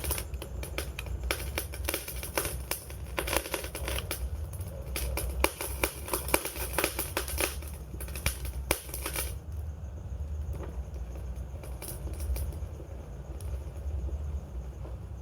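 Wood fire crackling and popping over a steady low rumble of flames. The crackles come thick and fast for about the first nine seconds, then thin out to scattered pops.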